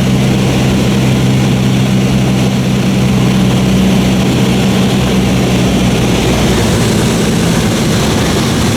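Cessna 152's four-cylinder Lycoming piston engine and propeller droning steadily in flight, heard loud from inside the small cockpit, along with rushing wind noise. The low steady note weakens slightly about six seconds in.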